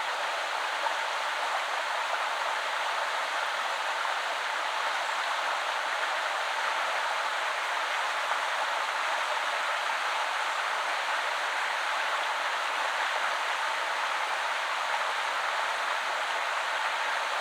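A shallow woodland river flowing, a steady, even rush of water with no breaks or changes.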